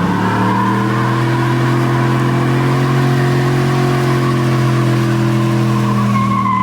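A car's engine held at high revs at a steady pitch, with spinning-tyre noise hissing over it: a burnout.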